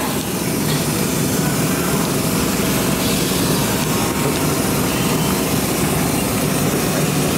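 LRT Line 1 light-rail train running, heard from inside the car: a steady low rumble.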